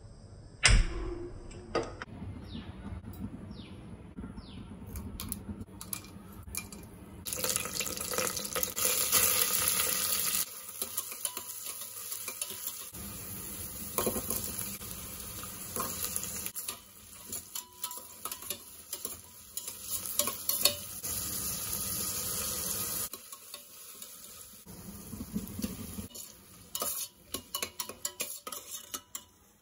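Cooking in a pot: food sizzling in hot oil while it is stirred with a metal spoon, with clinks and scrapes of utensil on the pot. It comes in several short cuts, and the sizzle is loudest about a third of the way in.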